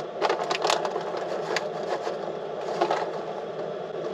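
Pistachio shells being cracked open by hand: a quick cluster of sharp clicks, then single cracks about a second and a half in and near three seconds in, over a steady low hum.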